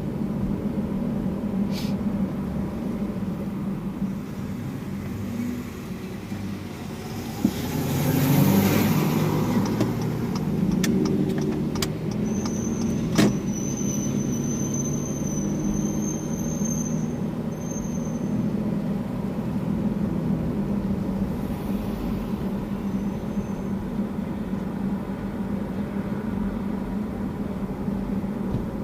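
Car cabin noise while driving: a steady low engine and road hum that swells louder for a few seconds about eight seconds in, with a few sharp clicks along the way.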